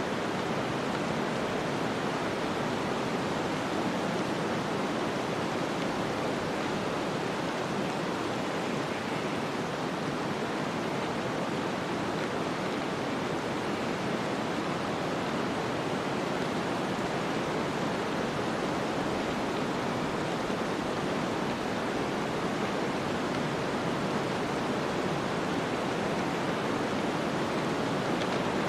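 Snowstorm ambience: a steady, even rush of wind noise with no distinct gusts or other events.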